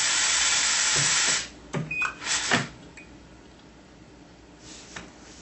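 Compressed-air hiss from a pneumatic air-actuated spot-weld head, held for over a second, then several short air bursts and clicks, then a faint steady hiss.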